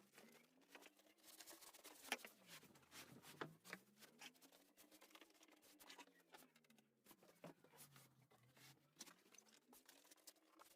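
Near silence: faint, scattered clicks and rustles over a low room hum.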